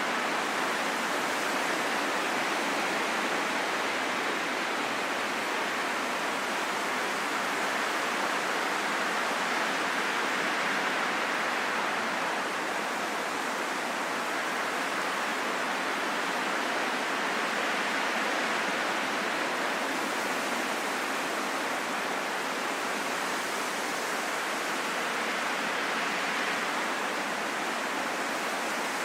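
Steady rain falling in a forest: an even, unbroken hiss with no distinct drops, thunder or other events.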